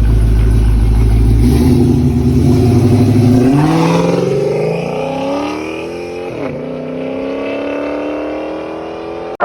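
Car engine rumbling, then accelerating hard with its pitch climbing. It drops briefly for a gear change about six and a half seconds in, then climbs again as the car pulls away.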